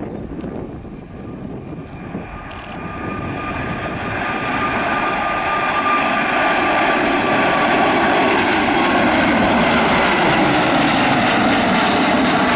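Boeing 777 freighter's twin GE90 turbofan jet engines at takeoff thrust. The roar grows louder over the first half and then holds steady, with a whine that slowly slides down in pitch.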